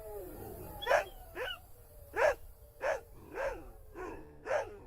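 A dog barking: about six short barks spaced half a second to a second apart.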